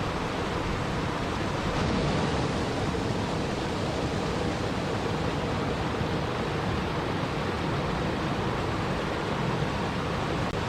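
Steady, unbroken rushing of water, even and full from deep rumble to hiss, with no distinct events.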